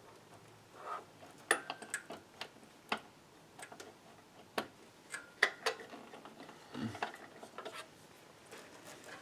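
Irregular light clicks and taps of hands working power cables and connectors inside a desktop computer case, with a few sharper clicks among them.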